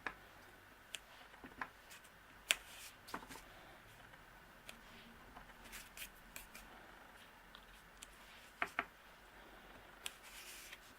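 Scattered light taps and clicks of a small photopolymer stamp being inked on an ink pad and pressed onto cardstock, with faint paper handling. The sharpest tap comes about two and a half seconds in, and a quick double tap near the end.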